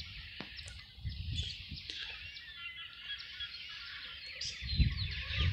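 Small birds chirping and twittering, a dense chatter of short high chirps that gets busier through the second half, with a low rumble about five seconds in.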